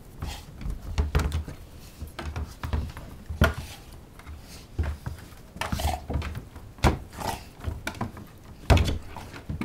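Irregular thuds and knocks as a dog noses a ball up a staircase, the ball bumping against the steps, with the loudest knock near the end.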